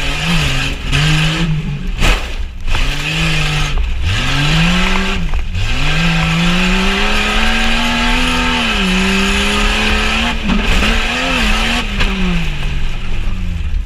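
Jeep Cherokee XJ's engine revving hard, its pitch climbing and falling in long sweeps as the throttle is worked, with several brief drops off the throttle.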